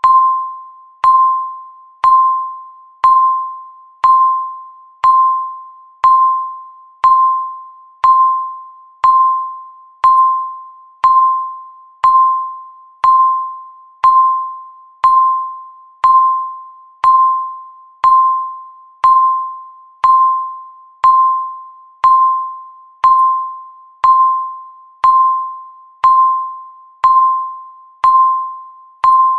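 Countdown timer's tick sound: a short electronic ping, one clear tone that starts sharply and fades away, repeating evenly once a second to mark each second of the count.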